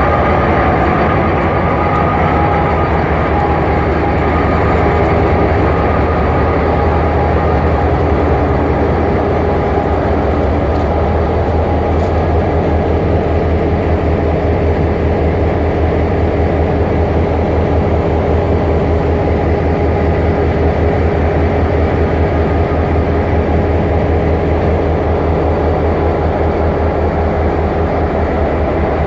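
Excursion train running along the track: a steady rumble of wheels on rail.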